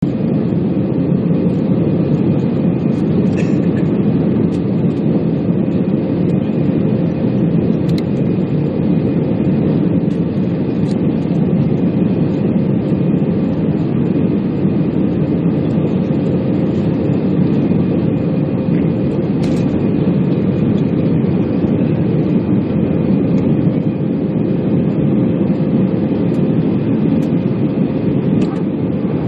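Airbus A320 jet taking off: a loud, steady, deep rumble of engine and air noise with a faint constant tone over it, holding level throughout.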